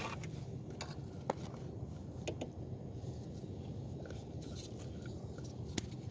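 Faint scattered clicks and light scrapes of hand tools working on a car's underside, over a low steady hum.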